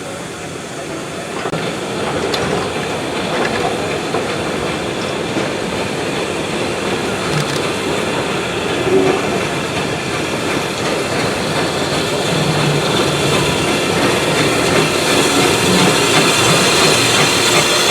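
Train running on the rails, wheels clacking over rail joints, growing steadily louder with a rising hiss.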